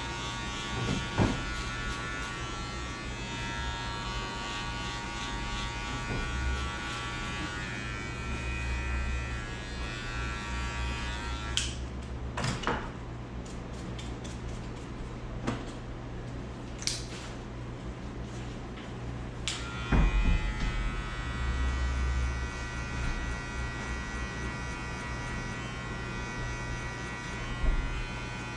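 Electric hair clippers buzzing steadily as they cut a fade. The motor stops about twelve seconds in, a few sharp clicks follow, and it starts buzzing again about twenty seconds in.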